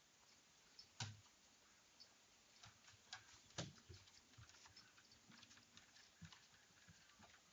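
Near silence: faint room tone with scattered soft ticks and two louder sharp knocks, one about a second in and one about three and a half seconds in.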